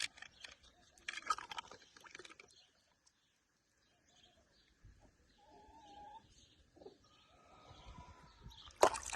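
Small scattered clicks and taps of toys being handled, with a louder clatter near the end.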